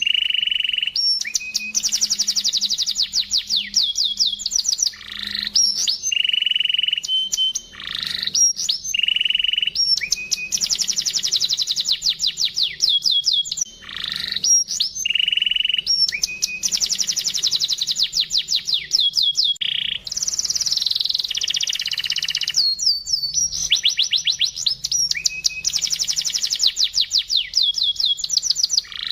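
Domestic canary singing a crystal-clear, ornate song. Phrase after phrase opens with a short held note and runs into long, fast trills of repeated notes. This is the kind of song used as a masteran, a tutor recording for teaching young birds.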